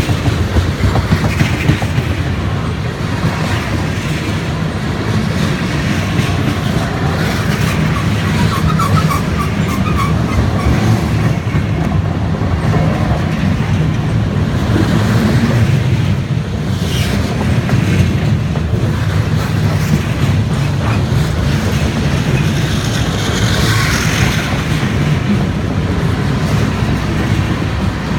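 Freight train cars rolling over a railway bridge: a loud, steady rumble of wheels on rail with clickety-clack over the rail joints. Now and then a faint wheel squeal comes in.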